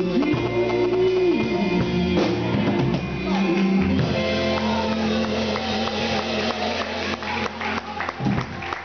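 Band music: the closing bars of a song, with guitar, drums and a held note that bends in the first second or so, dropping away near the end.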